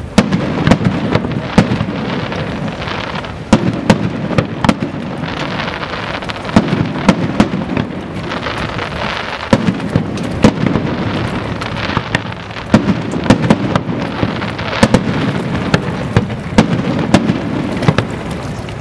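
Fireworks display going off: a dense run of sharp bangs and crackles over a rumble of shell bursts that swells and fades every few seconds.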